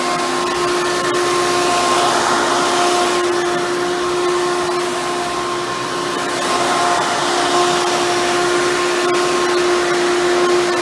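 Hoover Bagless Twin Chamber upright vacuum cleaner running steadily: a constant motor tone over the rush of air, dipping slightly in loudness partway through.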